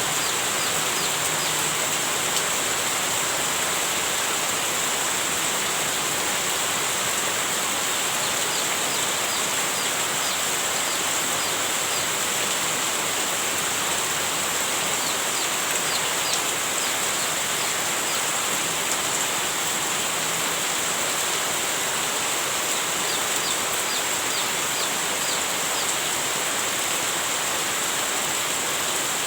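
Heavy rain falling steadily as an even, unbroken hiss, with faint short high chirps here and there.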